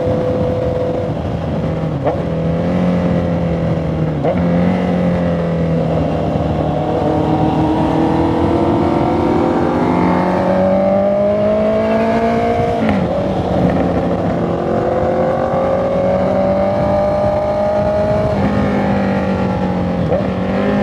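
Honda CB650R inline-four engine and exhaust running under way. The pitch climbs gradually and drops sharply several times.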